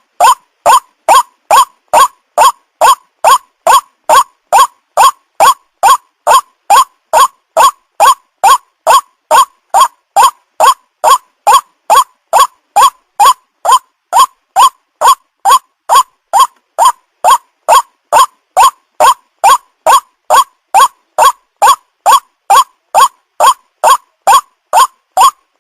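White-breasted waterhen (ruak-ruak) call, played as lure audio for trapping the bird. A short rising note repeats evenly, about twice a second.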